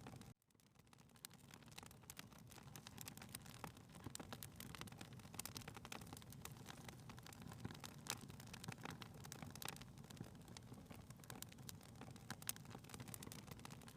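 Wood fire crackling in a fireplace, faint: scattered quick pops and clicks over a low hiss. The sound cuts out for a moment about half a second in, then fades back.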